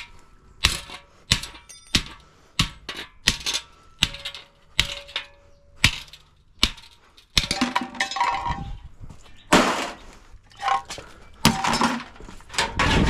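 Metal striking the steel door-hinge plates of a dishwasher being dismantled: a steady run of sharp clanks about one and a half a second, then louder, irregular clattering and knocking for the second half.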